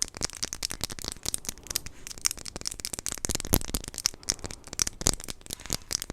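Plastic blind-box packaging being handled and crinkled, giving a fast, irregular run of crackles and clicks.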